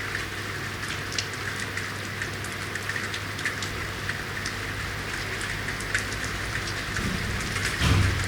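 Steady rain falling in a city street, with many separate drops tapping on hard surfaces over a steady low hum. Near the end a short, louder low rumble swells up.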